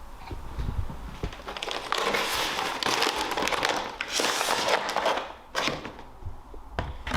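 Sheets of sandpaper being handled, crinkling and rustling. The sound runs from about a second and a half in to about five seconds in, with a few scattered clicks.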